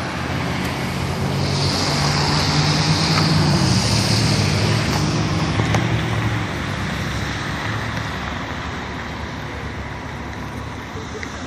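A motor vehicle drives past on the street, its engine and tyre noise swelling to a peak about three to four seconds in, then fading into steady traffic noise.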